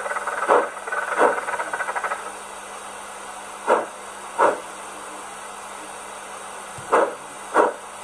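Steam locomotive sound from the sound decoder and small H0 speaker in a Rivarossi Big Boy model: a fast run of chuffing dies away about two seconds in, then a steady low hiss with short, loud puffs of steam in pairs, three pairs in all.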